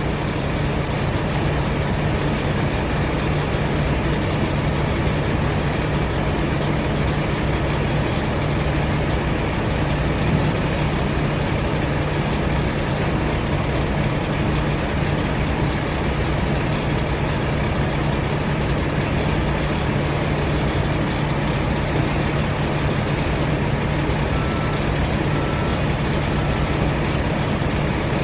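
Semi-truck's diesel engine idling steadily close by. A few short, faint beeps come near the end.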